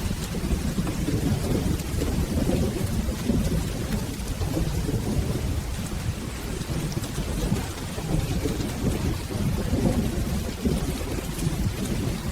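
Steady rain falling, under a continuous low rumble of rolling thunder.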